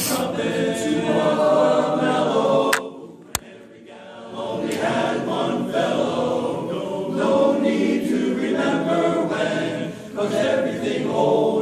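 A group of boys singing together in chorus, with a short break about three seconds in marked by a sharp click.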